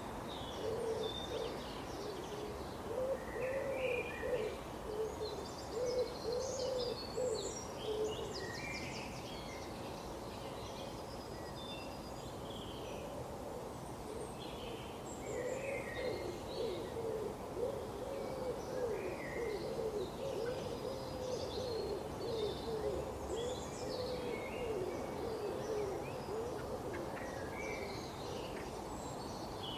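Birds calling outdoors: scattered short high chirps and whistles throughout, with a low, wavering hoot-like call running in two long stretches, one near the start and one in the middle.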